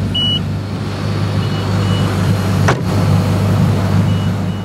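Koenigsegg CCXR's twin-supercharged V8 idling steadily, with the hazard lights' indicator beeping in short high pairs. A single sharp click about two-thirds of the way through.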